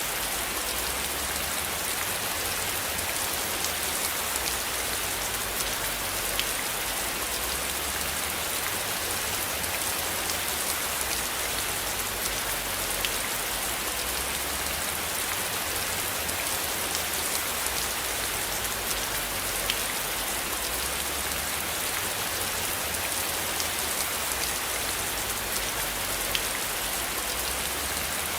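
Steady rain falling, an even hiss scattered with the small ticks of single drops. A low rumble underneath swells and fades slowly.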